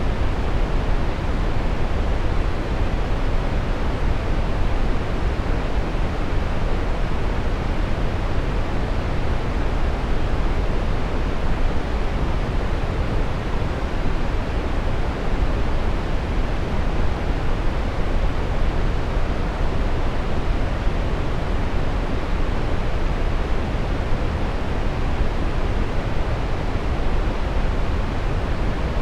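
Steady brown noise: a constant, even rumbling hiss, heaviest in the deep bass and rolling off toward the treble, with no changes.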